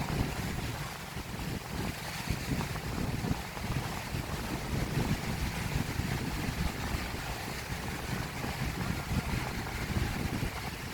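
Strong wind buffeting the microphone in irregular gusts, over the steady wash of surf on the beach.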